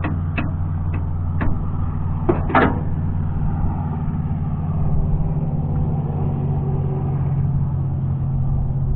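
An engine running steadily with an even low hum. A few sharp clicks come in the first second and a half, and one louder clank about two and a half seconds in.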